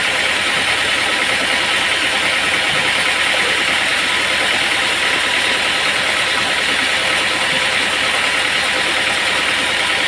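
Sawmill machinery running with a steady, even mechanical noise that does not change.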